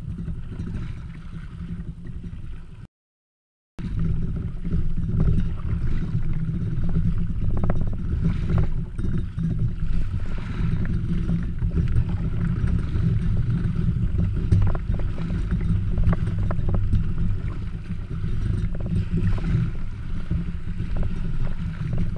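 Strong wind buffeting the microphone in a heavy low rumble while a Skimmer 128 kayak is paddled into it, with water slapping the hull and paddle splashes. The sound cuts out completely for under a second about three seconds in.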